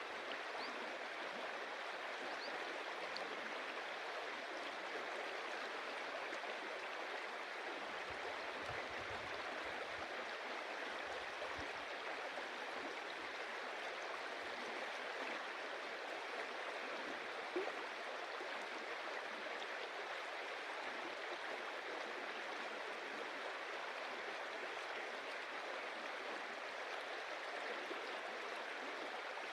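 Stream water running and splashing over stones in a steady rush, with one brief sharper splash or knock a little past halfway.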